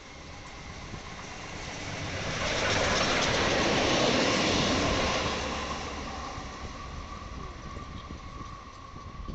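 NSWGR 59 class steam locomotive 5917, running light with a water tank wagon, passing by: a rush of wheel and rail noise that builds, peaks for about three seconds in the middle, then fades away.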